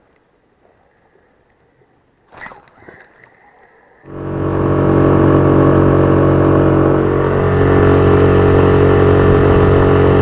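Boat's outboard motor running steadily under way. It comes in suddenly about four seconds in, after a few seconds of quiet.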